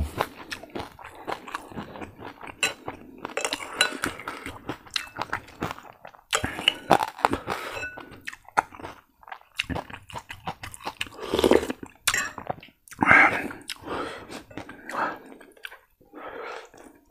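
Close-up chewing and crunching of crispy fried pork, in irregular crackling bites, with occasional clinks of a spoon against a bowl.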